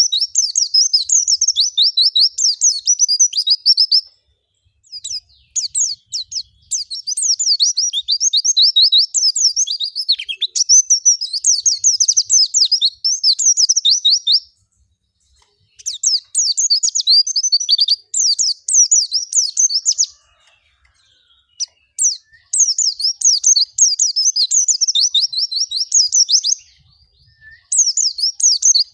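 White-eye (pleci) singing a fast, high-pitched twittering song in long phrases several seconds each, broken by short pauses about four seconds in, around the middle and near the end.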